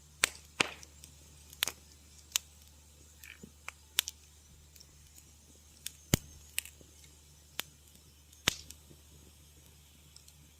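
Wood fire crackling in a fireplace: irregular sharp pops and snaps at uneven intervals, a few much louder than the rest, over a faint steady low background.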